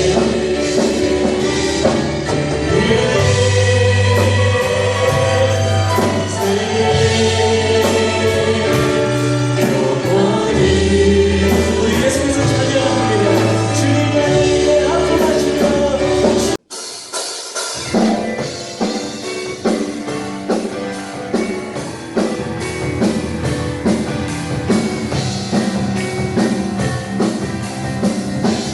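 Worship music: a choir singing a praise song with band backing. About two-thirds of the way through it cuts off abruptly, and a different track with a steady drum beat starts.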